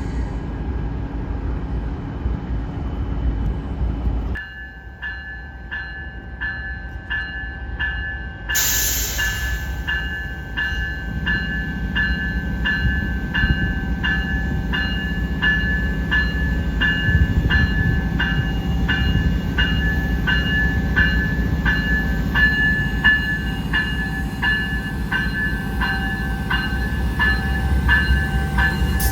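A train rumbling past, with a bell striking about twice a second from about four seconds in.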